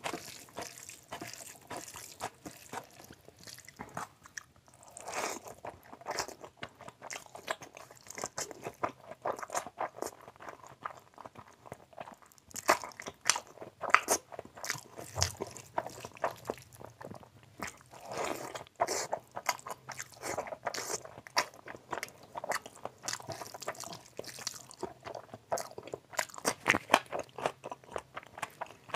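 Close-miked chewing of hand-fed mouthfuls of rice and mutton curry: a dense run of quick mouth clicks, smacks and bites, with fingers squishing and mixing rice on the plate between mouthfuls.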